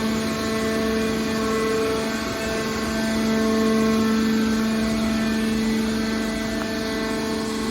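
Hydraulic scrap metal baler running, its power unit giving a steady, even hum.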